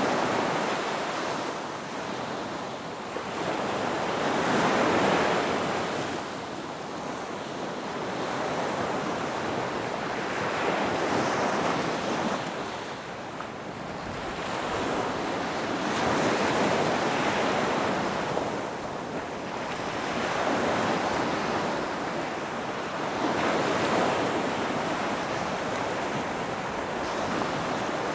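Ocean surf: waves breaking on a beach as a continuous wash of water noise that swells and eases every few seconds.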